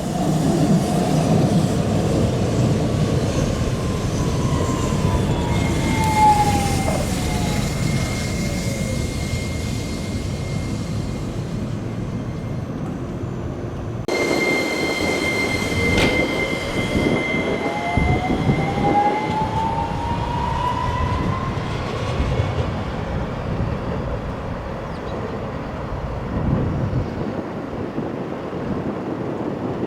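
Hiroshima Electric Railway tram 5101 running on street track, wheels rumbling on the rails, with its traction motor whine falling in pitch as it slows. After a sudden cut about halfway through, the whine rises in pitch as it pulls away, with a steady high tone above it.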